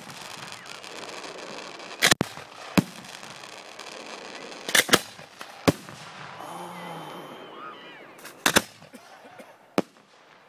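Aerial firework shells bursting overhead: about six sharp bangs at irregular intervals, a couple of them doubled.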